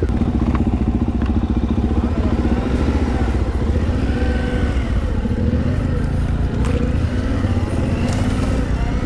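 Dual-sport motorcycle engine running under load on a dirt trail, its revs rising and falling as the rider throttles on and off.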